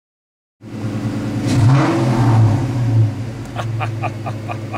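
A 1999 BMW E46 328i's 2.8-litre straight-six engine cuts in suddenly and is revved, its pitch rising and falling; it is loud. A quick run of clicks comes near the end.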